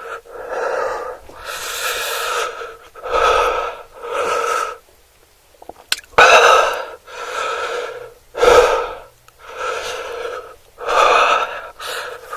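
A person breathing hard with wheezing, gasping breaths in and out, about one breath a second, with a short click about halfway through.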